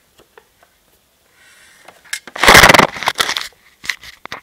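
Loud rustling and crackling close to the microphone for about a second, starting about two and a half seconds in, then a few sharp clicks: the sound of handling right at the recording device.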